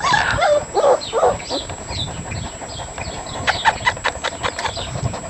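Four-week-old Bernewfie puppies (Bernese Mountain Dog x Newfoundland) whining and yelping in short high cries during the first second or so. Faint high chirps repeat throughout, with a few sharp clicks past the middle.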